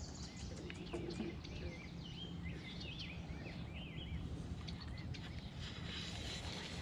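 A bird chirping a quick run of short, arching calls a couple of seconds in, over a steady low rumble of outdoor background noise.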